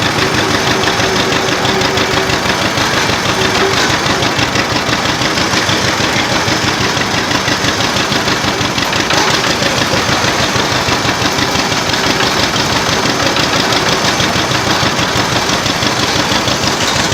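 Antique tractor engine running steadily and loudly at close range, its firing pulses coming fast and even.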